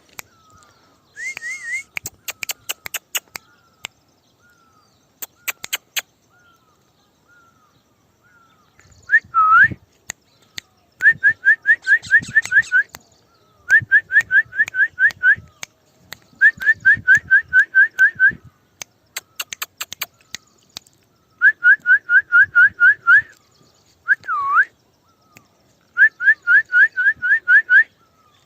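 A person whistling to call a pet parrot: repeated bursts of quick rising whistled notes, about four a second, with a couple of single long swooping whistles between them. Fainter short chirps and clicks come in the first few seconds.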